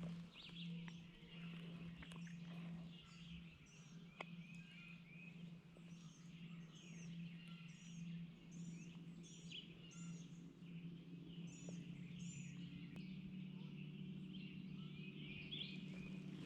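Faint songbirds singing: a run of short, high repeated chirps through the middle over lower warbling song, with a steady low hum underneath.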